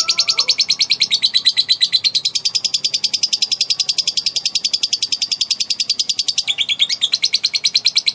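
Female lovebird doing 'ngekek': a long, unbroken, rapid chattering trill of sharp high notes, about a dozen a second, with a brief stumble about six and a half seconds in. Breeders play this sustained chatter as a lure to set other lovebirds chattering.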